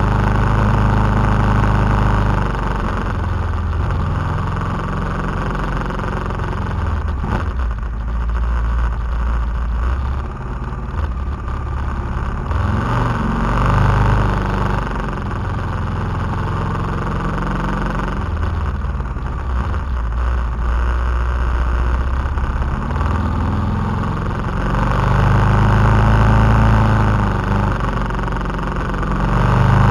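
KTM 990 SMT's V-twin engine running under a rider, its revs rising and falling again and again through the bends as the throttle is opened and closed, with a steady rush of wind noise.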